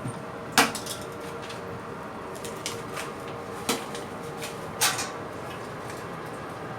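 A handful of short, sharp clacks and knocks over a steady hum. The loudest come about half a second in and twice more near the middle.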